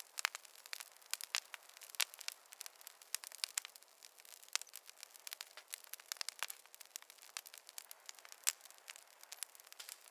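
Wood campfire crackling: irregular sharp pops and snaps, several a second.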